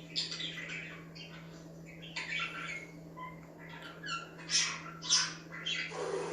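Budgerigars chirping and chattering in a run of short calls, with two louder squawky calls in the second half.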